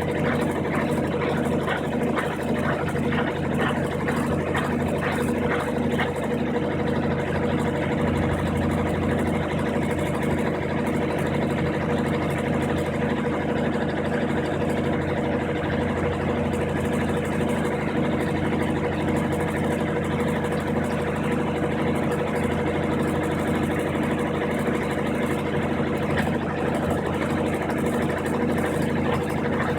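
Brastemp 15 kg top-loading washing machine in its spin cycle, the motor and drum running with a steady hum and an evenly pulsing tone. A deeper low note comes in about eight seconds in, with the drain pump already switched off.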